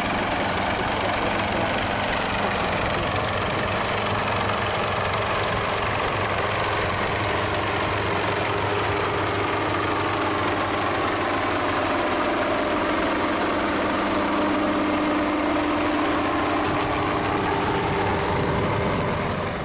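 Helicopter running close by, engine and rotor going steadily with a faint whine that drifts slowly in pitch; it cuts off suddenly at the end.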